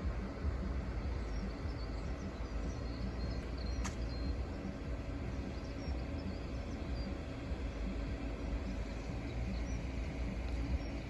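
Steady low outdoor rumble, with faint bird chirps high above it and a single click about four seconds in.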